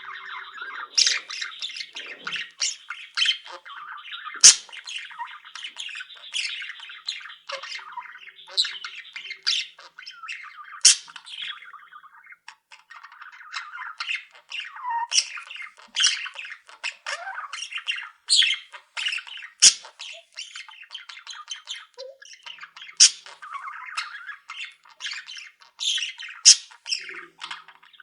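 Pet budgerigars and other small cage birds chattering continuously, a dense warbling studded with frequent sharp, high squawks and chirps.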